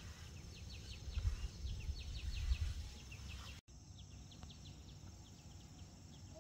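Small birds chirping outdoors: a quick run of short, high, falling chirps over a low rumble in the first half, broken by a sudden brief drop-out a little past halfway.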